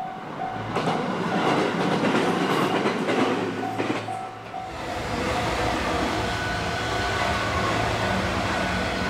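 Electric train passing over the rails with a loud running noise and wheel clatter, while a level-crossing warning bell rings repeatedly. The noise is loudest for the first four seconds or so, then settles to a steadier, slightly quieter run.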